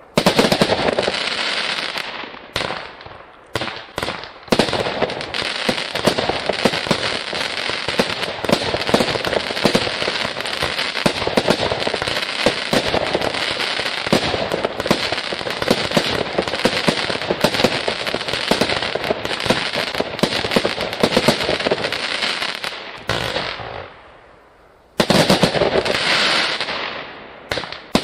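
A 200-shot firework cake firing in a rapid, continuous barrage of launches and bursts. The barrage dies away near the end, then a loud new volley starts.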